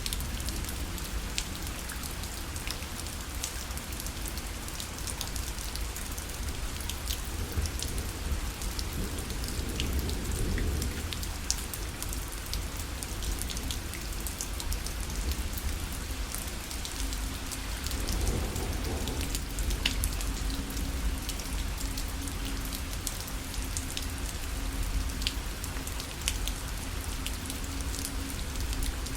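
Rain falling on a parasol: a steady patter of many small drops striking the canopy, over a low rumble.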